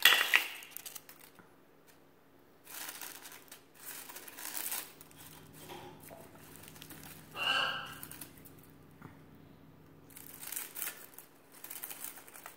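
Dry rose petals and leaves crinkling and tearing in bursts as a moustache parakeet chews and rummages through a bunch of dead roses, loudest at the very start. A brief pitched sound is heard about halfway through.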